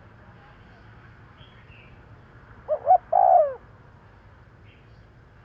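Spotted dove cooing once, about three seconds in: two short notes followed by a longer coo that falls in pitch at the end.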